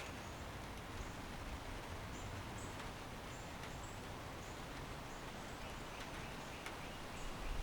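Backyard ambience: a steady hiss of background noise with faint, short high chirps every second or so and an occasional tick. A low rumble swells near the end.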